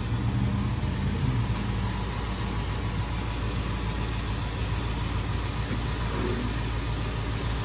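A car engine running with a steady low hum. A deeper tone in the hum fades out about a second and a half in.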